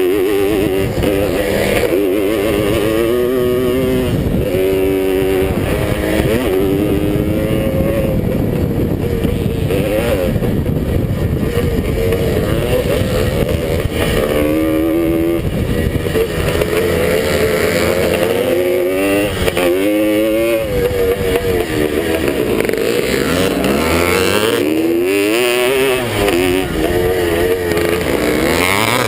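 Vintage two-stroke motocross motorcycle engine running hard at race pace. Its pitch climbs and drops again and again as the throttle is worked and gears are shifted, over a steady rushing noise.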